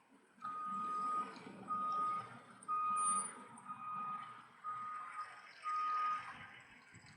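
A vehicle's reversing alarm: six steady high-pitched beeps, about one a second, over a low rumble.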